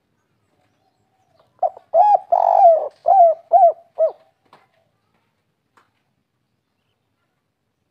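Spotted dove (derkuku) cooing one song phrase of about six notes, starting about a second and a half in and lasting some two and a half seconds. The longest note is in the middle, and the phrase closes with three short clipped notes, the 'kuk 3' song type.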